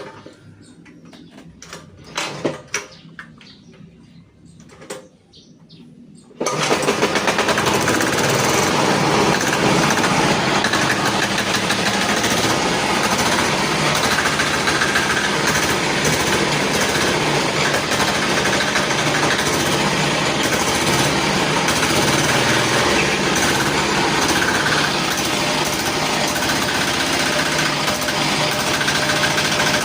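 Diesel engine of a custom motorcycle, running through its exhaust and muffler. It cuts in suddenly about six seconds in and runs loudly and steadily after that, with a few short knocks before it.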